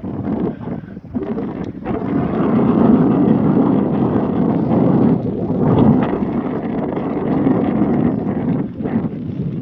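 Wind buffeting the microphone: a loud, unsteady rushing noise, dipping briefly about a second in and again near the end.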